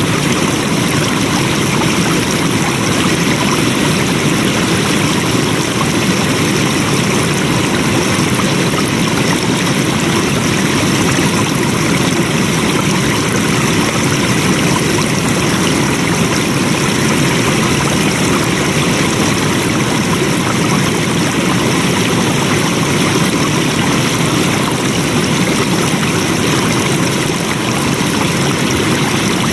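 Flowing water running steadily, an even stream-like rush with no breaks or changes.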